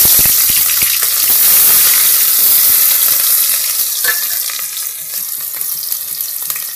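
Sliced onion and chopped green chillies sizzling in hot oil. The hiss is loudest at first and slowly eases, with scattered light clicks.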